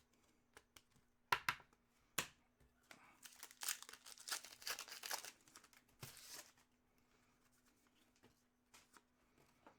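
A few sharp clicks, then a foil card-pack wrapper being torn open and crinkled for about two seconds, with a shorter crinkle about six seconds in.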